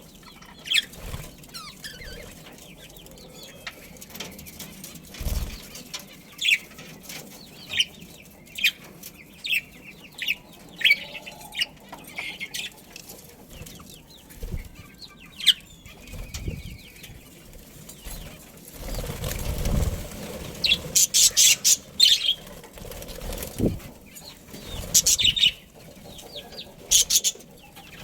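A flock of budgerigars chirping in many short, high calls, crowding together in bursts near the end, with flutters of wing flapping in between.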